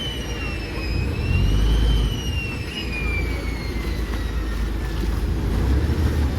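Chao Phraya express boat's engine running with a heavy low rumble. A high whine above it slowly falls in pitch, climbs briefly about two seconds in, then keeps falling.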